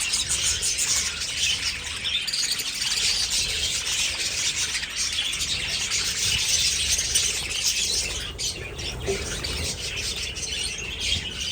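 A flock of budgerigars chirping and chattering all at once in a dense, continuous din, with some squawks and wing-flapping.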